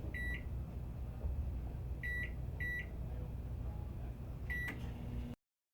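Microwave oven keypad beeping as the cooking time is entered: four short high beeps, the last two about half a second apart, over a steady low hum. The sound cuts off abruptly near the end.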